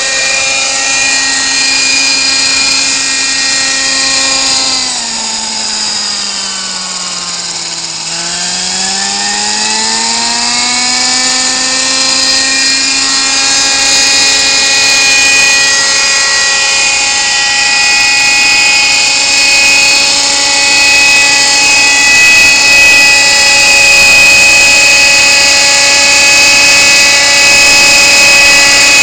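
Kyosho Nexas 30 nitro (glow-fuel) RC helicopter engine and rotors running at high, buzzing revs. Its pitch sinks over a few seconds about five seconds in, then climbs back and holds steady, following the pilot's throttle.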